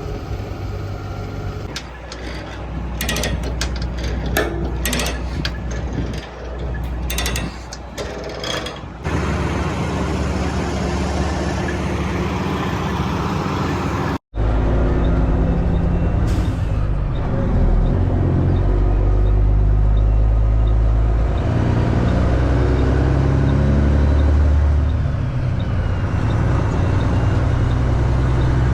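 Straight-piped truck engine running loud, with its pitch stepping up and down as it pulls through the gears. Sharp irregular clicks and rattles are heard over the first several seconds.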